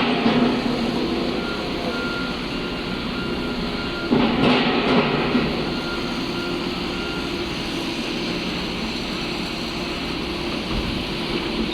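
A vehicle's backup alarm beeping repeatedly over the steady running of heavy construction machinery. The beeping stops a little past halfway, and the machine noise swells louder for a moment about four seconds in.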